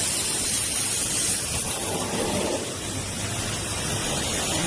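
Steady rushing hiss of spraying or running water, strongest in the highs.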